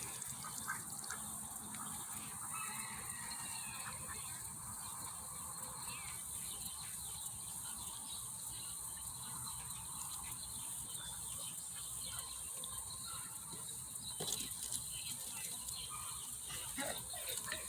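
Ducks and geese calling now and then over a steady hiss of falling rain.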